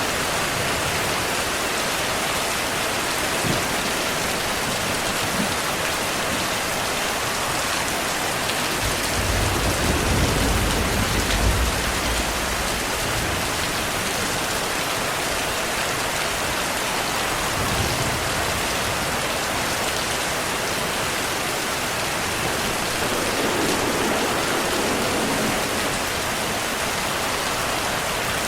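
Heavy rain falling steadily, with a low rumble of thunder swelling from about nine to twelve seconds in.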